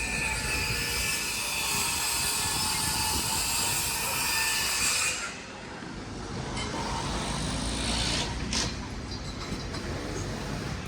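Train running through the station on the rails, with a thin steady wheel squeal over the noise of the wheels. It drops away sharply about five seconds in, leaving a fainter rumble.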